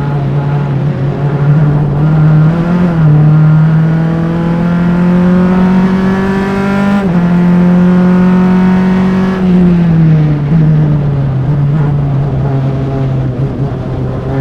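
Formula Enterprise race car's engine at full throttle on track, recorded close by engine-mounted mics. It climbs steadily in pitch, drops sharply about seven seconds in as the driver shifts up, runs on, then falls away around ten seconds in as he lifts off, and runs lower to the end.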